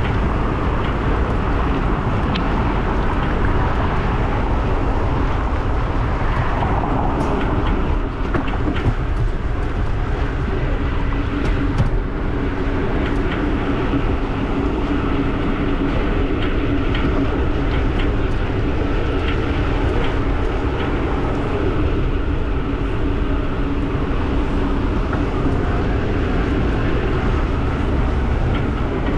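Riding noise from a Giant e-bike in motion: steady wind rumble on the microphone with a constant hum, and scattered, irregular faint ticks, most of them around the middle.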